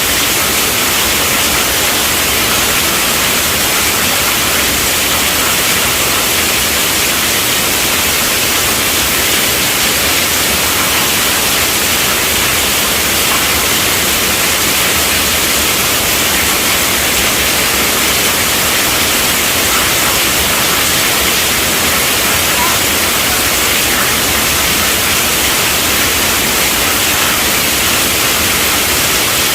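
Steady rainfall: a dense, even hiss with no single drops standing out.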